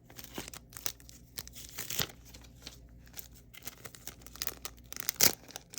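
Paper mail packaging being torn open and crinkled by hand, in irregular rustles and rips, with a louder one about five seconds in.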